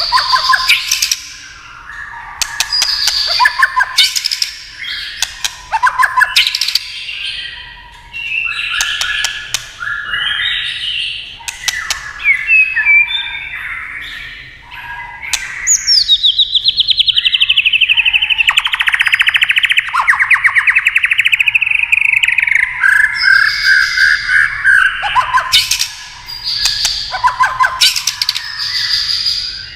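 White-rumped shama singing loud, varied phrases broken up by sharp 'tak' clicking calls. About halfway through comes a long, fast run of rapid notes that lasts several seconds, then the clicks and short phrases return.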